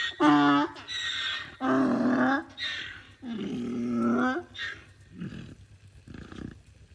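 A donkey braying: repeated pitched calls that turn into two longer, rougher ones, then die away into weak breathy gasps about five seconds in.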